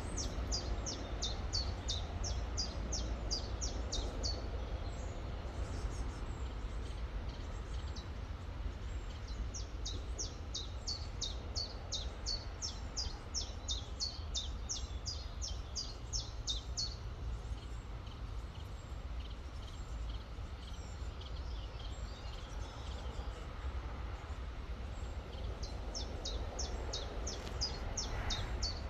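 A bird calling a high, quick repeated chirp, about four a second, in runs of several seconds that stop and start again. Beneath it is the steady rush of a flowing river with a low rumble.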